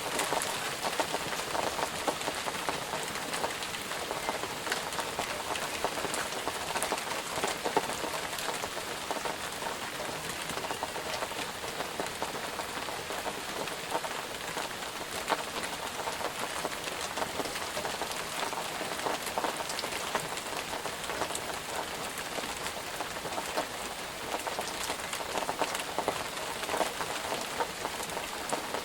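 Steady rain falling, with many individual drops pattering on a surface over an even hiss.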